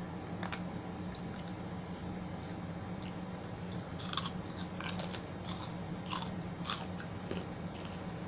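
Close-up eating sounds: a person biting and chewing food, with about five sharp crunches around the middle. A steady low hum runs underneath.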